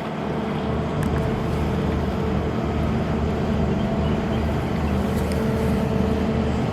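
A vessel's engine running steadily: a low, even drone.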